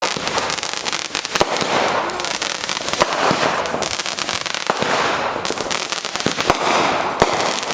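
Fireworks display: a dense, continuous crackling of many small pops, with louder single bangs scattered through it.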